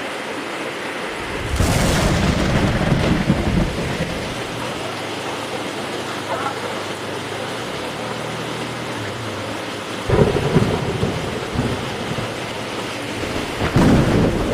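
Heavy rain falling steadily, with thunder: a sharp crack about a second and a half in that rolls into a low rumble for a couple of seconds, then two more rumbles, one near ten seconds in and one near the end.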